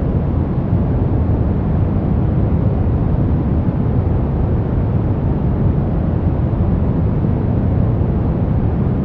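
Steady brown noise: a deep, even hiss rumble, heaviest in the bass and rolling off toward the treble, without changes.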